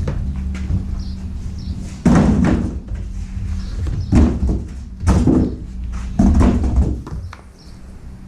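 Cardboard shipping box and packing being opened and handled, with several loud thumps and scrapes a second or so apart, over a steady low hum.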